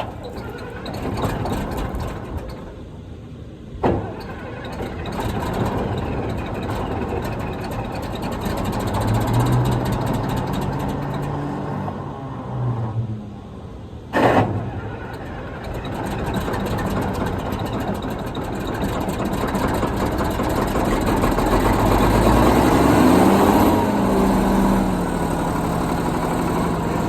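A vehicle engine running, its pitch shifting and rising in a rev near the end. Two sharp knocks stand out, about four seconds in and again about ten seconds later.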